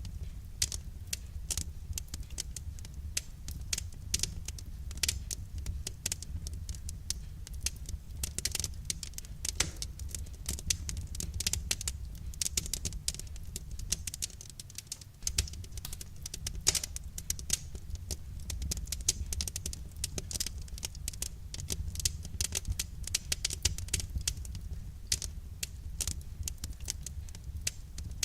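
Wood fire crackling: many irregular sharp pops and snaps, over a steady low rumble.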